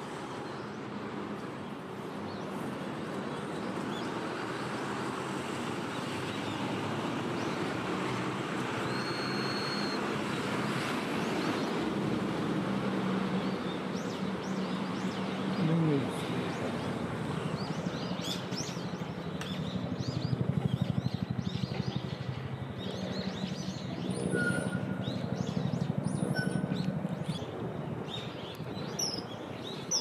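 Outdoor background noise with a low rumble underneath, and short high bird chirps that start about halfway through and come more often near the end.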